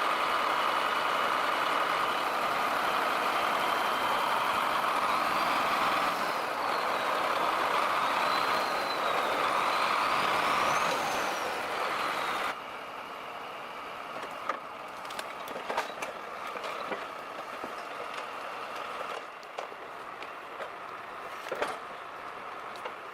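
Belarus tractor's diesel engine running hard under load, with a high whine that rises and falls with the revs as it strains in the mud. About halfway through the sound drops suddenly to a quieter rumble with scattered knocks and clicks.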